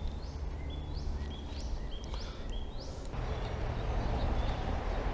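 A small songbird repeating a short high note about six times, each sliding up and then held, over a steady low rumble of outdoor noise; about three seconds in, a louder hiss rises beneath it.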